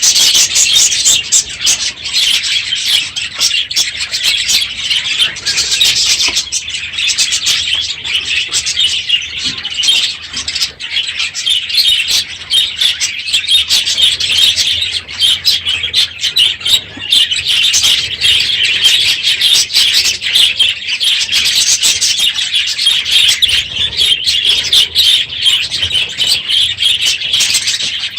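A large flock of budgerigars in an aviary chattering and chirping all at once, a dense, continuous, loud chorus of high chirps, at the end of the breeding season when the aviary holds the most birds.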